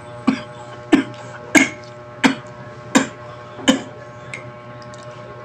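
Wet mouth smacks while chewing a mouthful of mashed avocado: six short, sharp smacks, about one every two-thirds of a second, fading near the end.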